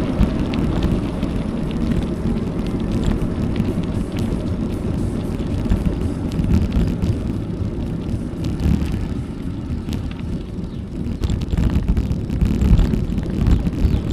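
Wind buffeting an action camera's microphone on a moving bicycle, with rough tyre rumble from the road and scattered small clicks and rattles; the buffeting swells louder near the end.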